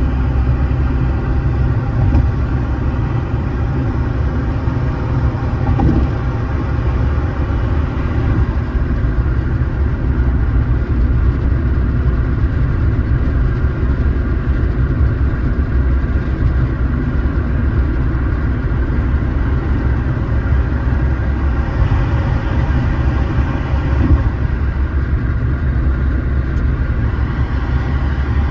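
Steady rumble of a car driving along, with engine and road noise and no change in pace.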